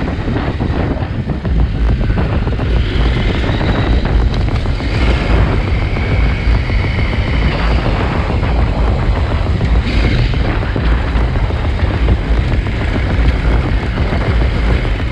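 KTM 890 Adventure R's parallel-twin engine running under way on a dirt trail, with wind buffeting the microphone.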